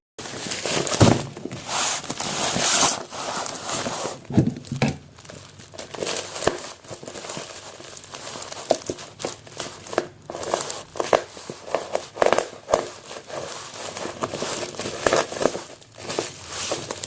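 A shipping package being opened by hand: its wrapping is torn and crumpled in a long run of uneven crinkling, tearing and crackling bursts.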